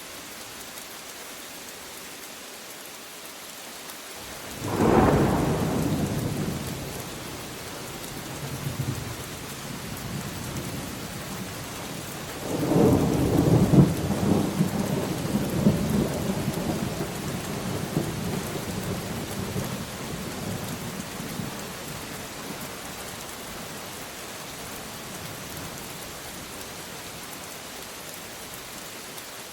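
Steady rain with two rolls of thunder: a sudden loud peal about four seconds in that rumbles away over a few seconds, then a longer rolling rumble from about twelve seconds in that fades slowly.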